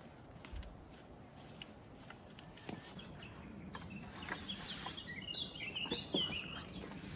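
A bird chirping in a quick, busy burst of high notes a few seconds in, over scattered faint clicks and crackles.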